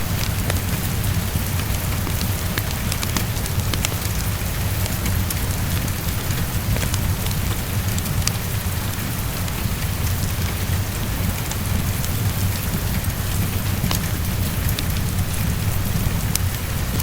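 Steady heavy rainfall with a low, constant rumble underneath and scattered sharp clicks, as in a fire crackling.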